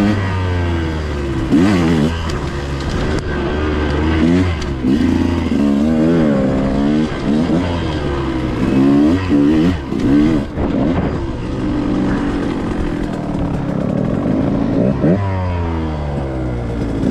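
2021 KTM 125XC dirt bike's single-cylinder two-stroke engine revving up and down over and over as the throttle is worked on and off, the bike ridden slowly.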